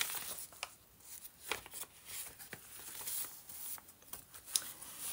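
Paper pages of a handmade journal being handled and turned: soft rustles with scattered light taps and clicks.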